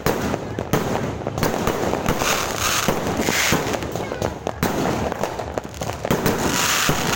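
Fireworks going off in a dense string of irregular bangs and pops, with two stretches of hissing crackle, about two to three seconds in and again near the end.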